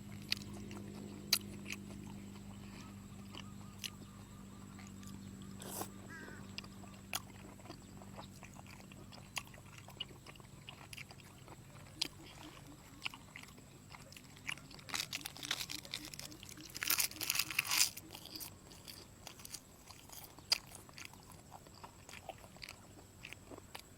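Close-up eating sounds: a person chewing and crunching mouthfuls of soy-sauce-marinated seafood, with scattered wet clicks and a burst of louder crunching about three-quarters of the way through.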